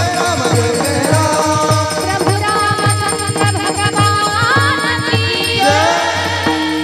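Kirtan devotional music: a voice singing a wavering melody over a steady drum beat of about four strokes a second, with jingling percussion.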